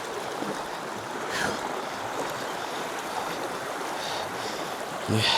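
Shallow mountain river rushing steadily around a person wading across it, with a light splash about a second and a half in.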